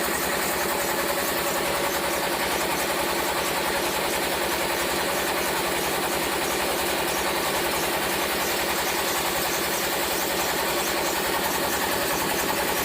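Bajaj Pulsar's single-cylinder four-stroke engine idling steadily, with an even pulse and no revving.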